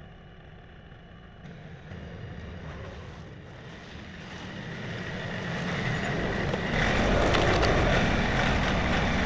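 Tractor engine running, growing steadily louder over the first seven seconds, then holding steady.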